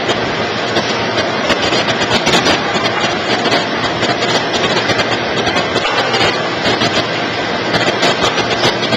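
Commercial vegetable cutting and washing machine running: a steady mechanical noise with a low hum and a constant patter of small clicks.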